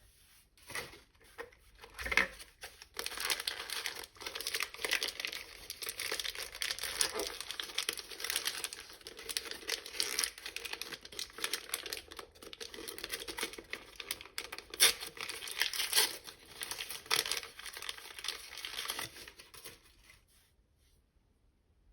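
Plastic packaging being crinkled and torn open by hand: a dense run of crackles that starts about two seconds in and stops near the end.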